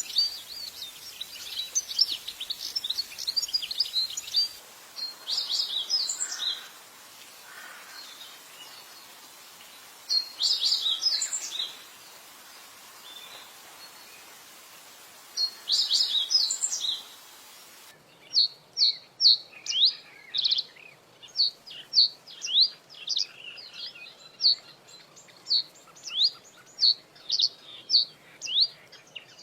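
Songbirds singing: chattering phrases of high notes in bursts a few seconds apart; then, after an abrupt cut about 18 seconds in, a different bird repeating short rising notes about twice a second.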